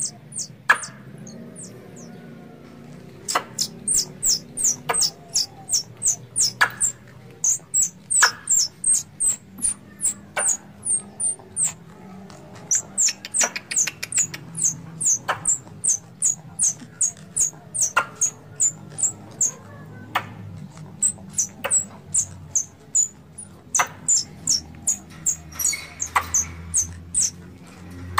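Squirrel call used as a hunting lure: long runs of short, high-pitched chirps, about three to four a second, each opening with a sharp click, broken by brief pauses.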